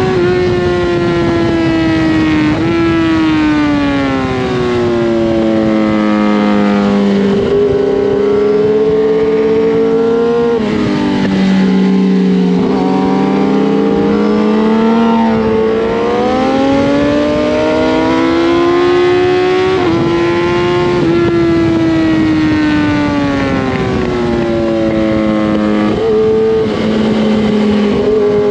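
Kawasaki ZX-10R inline-four sportbike engine at high revs on track: the pitch falls under braking into corners and climbs again under acceleration, with sudden steps at gear changes, and steady wind rush over the bike throughout.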